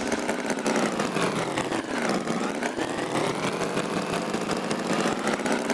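Tractor engine sound effect running steadily with a fast chugging pulse, its pitch dipping about two seconds in and rising again.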